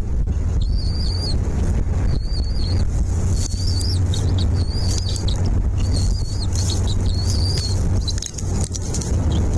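A small bird calls over and over, a short, high, wavering chirp about once a second, over a steady low rumble.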